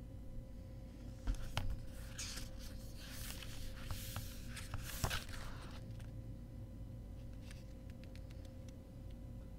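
Packaging of a CD box set being handled: a few seconds of rustling with sharp clicks, the loudest about a second in and again near the middle. After that come a few faint ticks.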